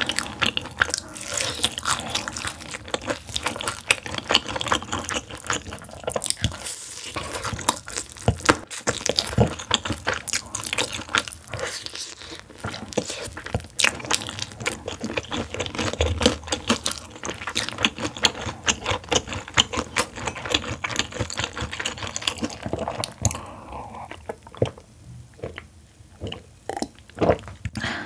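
Close-miked crunching and chewing of crispy sauce-coated fried chicken, with dense crackling bites through most of the stretch. Near the end it goes quieter, with a few separate gulps as beer is swallowed.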